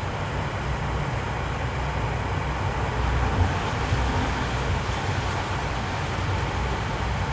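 Steady in-car driving noise: a low engine and road rumble under an even hiss from the cabin fan.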